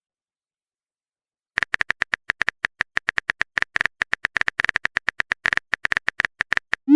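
Smartphone on-screen keyboard tap sounds: rapid, irregular typing clicks, about nine a second, starting a second and a half in. They end in a short rising swoop as a message is sent.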